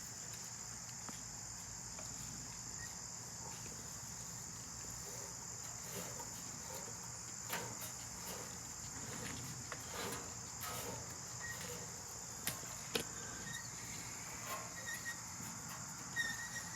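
Steady, high-pitched insect chorus that runs on without a break, with a few faint sharp clicks and knocks scattered through it.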